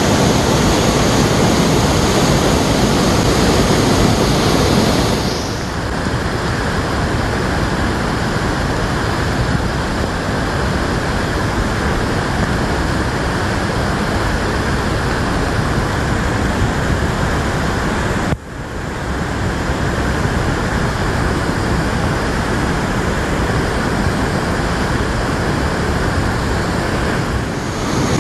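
Rushing waterfall, the roar of a swollen mountain-valley fall in heavy flow after much rain, a loud, steady wash of water noise. The sound changes a little in tone about five seconds in and near the end, and drops out for an instant about 18 seconds in.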